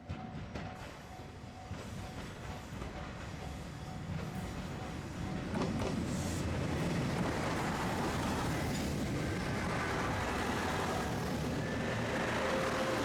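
Diesel train on JR Shikoku's non-electrified Dosan Line approaching and passing, its rumble growing louder over the first six seconds and then holding steady and loud, with a few sharp clicks along the way.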